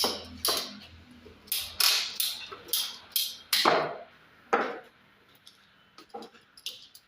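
An irregular series of sharp knocks or scraping strikes, about nine in the first five seconds, each dying away quickly, then a few fainter taps near the end.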